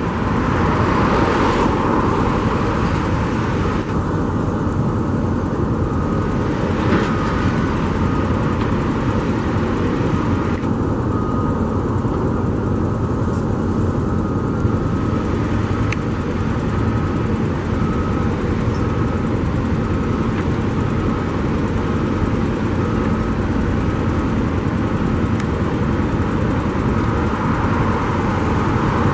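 Steady rumble of construction trucks and heavy equipment working, with a faint beep repeating about once a second through the second half.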